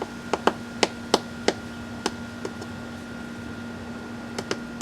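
A steady electrical hum with a series of sharp clicks and taps, about seven in the first two seconds and a few more near the end.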